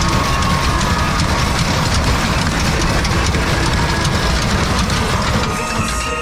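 Hydraulic lowrider Suzuki mini truck hopping: a loud, steady, deep rumble with rattling clatter.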